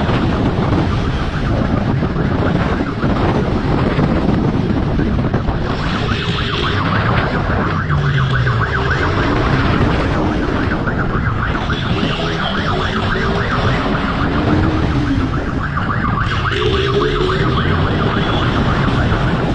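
Siren wailing, rising and falling in slow cycles, over steady vehicle and road noise.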